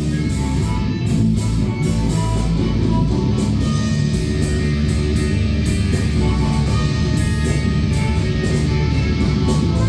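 Loud rock music with electric guitar and a drum kit keeping a steady beat.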